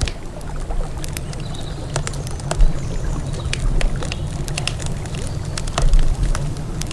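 Wood fire crackling, with irregular sharp pops and snaps, over a steady low rumble.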